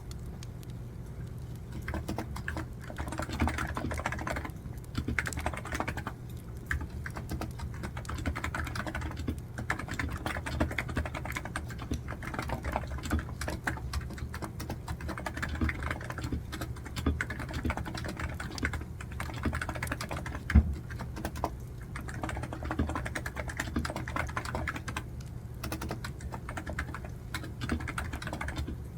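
Typing on a computer keyboard in runs of quick key clicks broken by short pauses, over a steady low hum. One louder knock stands out about two-thirds of the way through.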